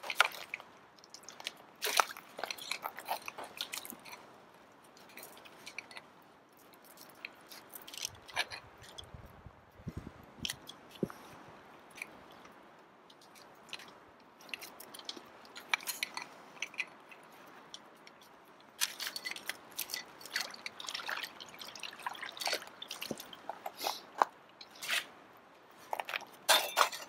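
Irregular crunching and sharp clicks, scattered with quiet gaps and busiest in the latter half, from a ladder and carabiners being handled and rigged to ice screws on lake ice.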